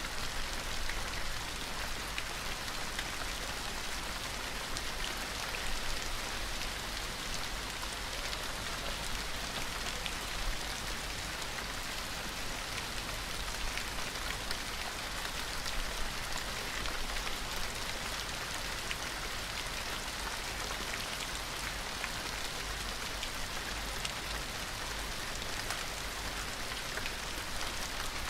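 Steady rain falling, a dense even patter of many small drops hitting a surface.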